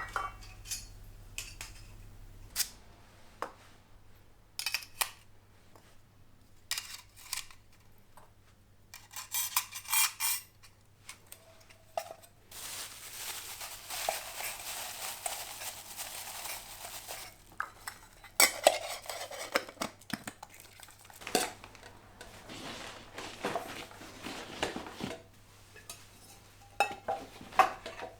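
Metal camp cookware and utensils clinking and knocking, in scattered sharp clicks, with about five seconds of steady hiss around the middle.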